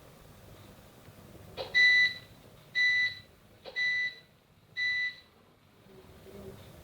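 Four steady, high-pitched beeps about a second apart, each lasting about half a second, with a short click just before the first and the third.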